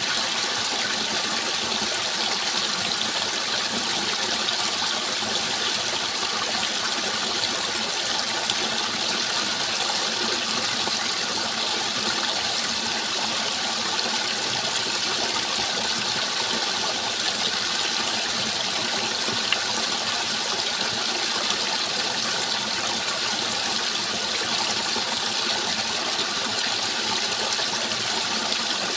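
Steady flowing water, an even unbroken rush without breaks or distinct splashes.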